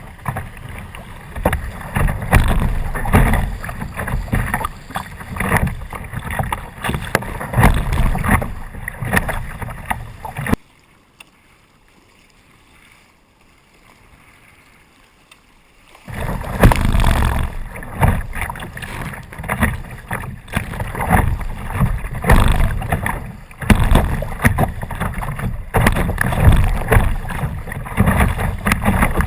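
Kayak on the water: water splashing and rushing past, with wind buffeting the microphone in uneven gusts. The noise drops away suddenly about ten seconds in and returns about five seconds later.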